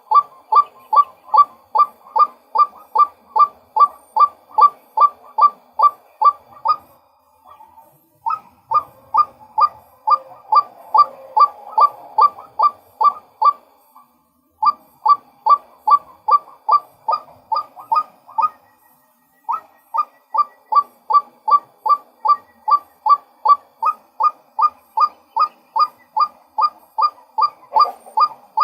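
Male white-breasted waterhen calling: a long run of identical 'kwak' notes, about three a second, broken by three short pauses and starting up again each time.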